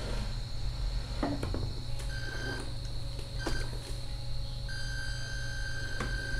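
1/14-scale RC Scania R470 model truck running: a steady low hum with a thin high whine that cuts in and out a few times, staying on from about two-thirds of the way in, and a few light clicks.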